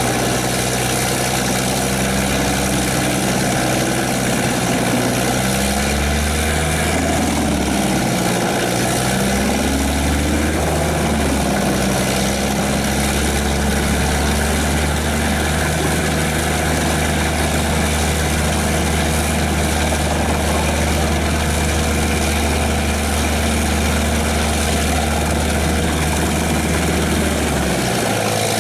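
Diesel engine of a tracked mobile drum wood chipper running hard and steady. Its pitch dips and climbs back a few times about a quarter of the way in, and again near the end.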